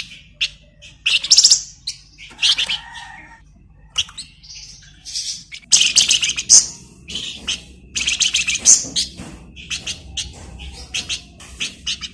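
A songbird known in Indonesia as the flamboyan singing in busy, chattering bursts. Fast rattling trills alternate with short sharp high notes, broken by brief pauses.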